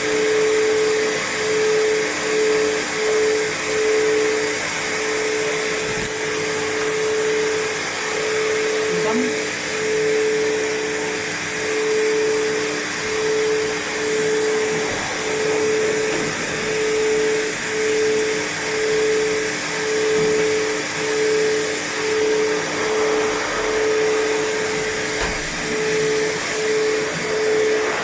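Pet hair dryer blowing air on a cat's coat, a steady rushing noise with a motor hum that cuts in and out about once a second as the loudness swells and dips.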